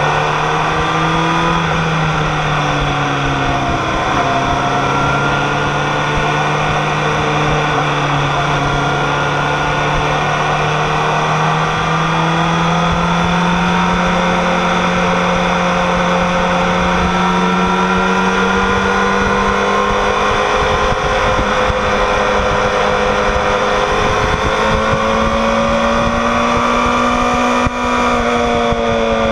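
Kawasaki ZX6R's inline-four engine running hard at high revs, heard from the bike itself over wind noise. The engine note jumps in pitch a couple of times in the first few seconds, climbs slowly for most of the time and falls away near the end.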